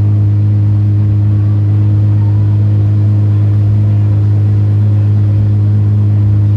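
Car engine idling steadily: a low, even hum that holds one pitch with no revving.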